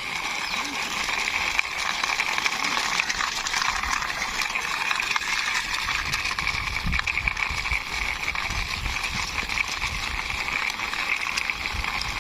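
Toy Heavy Duty Faluder truck pushed along a wall by hand, its plastic wheels rolling with a steady rushing noise and uneven low rumbles.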